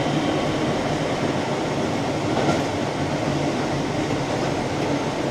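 Keihan electric commuter train running on the line, heard from inside: a steady rumble of wheels on rails, with one faint click about two and a half seconds in.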